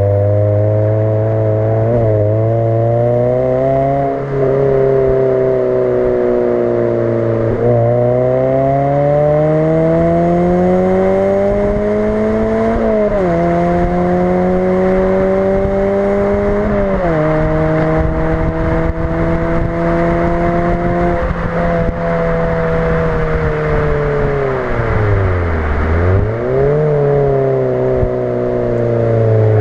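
Suzuki Swift's non-resonated sports exhaust while driving. The engine note climbs steadily in pitch under acceleration and falls sharply at two gear changes midway. It then holds steady, dips low and climbs again near the end.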